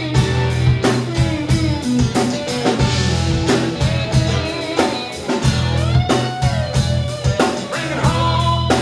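Live band playing: an electric guitar line with bent notes over a steady drum beat and bass.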